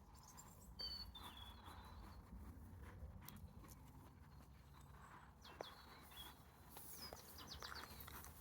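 Faint outdoor ambience with small birds chirping: a few short, high chirps about a second in, again near the middle and near the end, over a low steady rumble.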